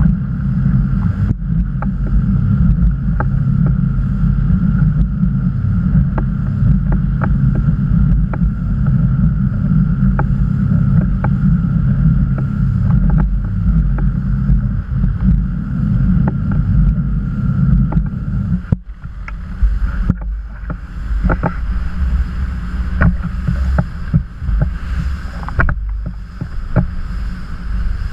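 Motorboat underway: steady engine and water rumble with frequent short slaps and knocks against the hull. About nineteen seconds in, the low rumble drops and turns choppier.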